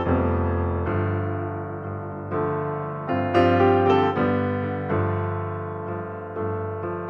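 Background piano music: slow chords struck every second or so and left to ring and fade.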